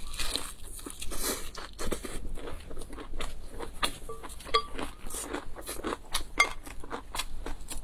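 Close-miked eating sounds: a person chewing and biting food, with irregular crunches, crackles and wet mouth clicks.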